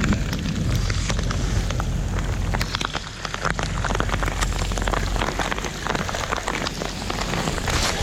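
Rain falling, heard as a dense hiss of many separate drop hits over a steady low rumble.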